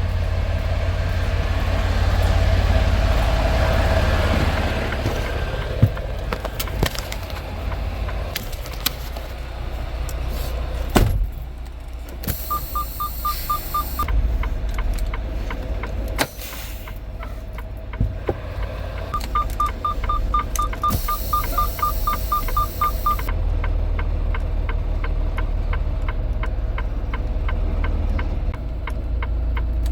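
Semi truck's diesel engine running steadily at idle, with scattered clicks and knocks. Rapid high electronic beeping comes in twice, briefly about twelve seconds in and longer around twenty seconds in, and fast ticking fills the last few seconds.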